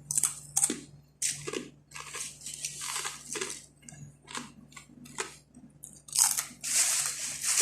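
Close-up crunching and chewing of crunchy food: a string of sharp crunches, one or two a second, that grows denser and longer from about six seconds in.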